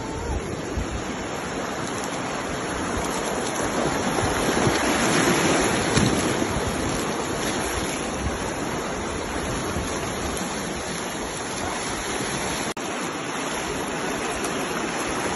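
Rushing river water around a bamboo raft, a steady wash that swells a few seconds in.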